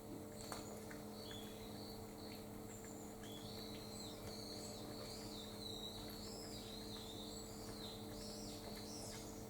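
Small birds chirping, with a quick warbling song that starts about three seconds in and runs until near the end, over a steady low electrical hum.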